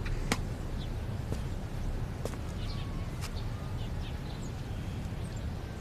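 Faint bird chirps over a steady low background, with a few sharp clicks, the clearest about a third of a second in.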